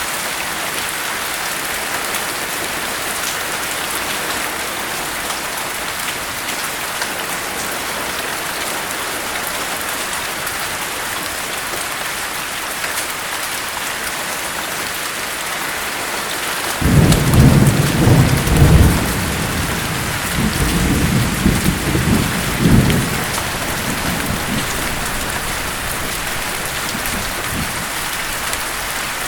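Steady rain falling in a continuous hiss. A little past the middle a roll of thunder comes in, a low rumble that swells several times over about six seconds before fading back under the rain.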